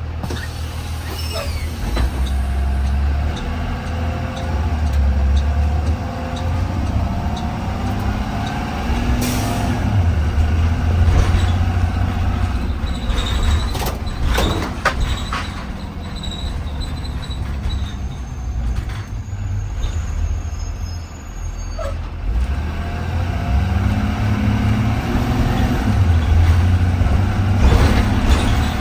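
Blue Bird Vision school bus heard from inside while driving. The engine runs steadily and its pitch rises twice as the bus pulls away and speeds up, with a few short sharp hisses or rattles along the way, likely from the air brakes.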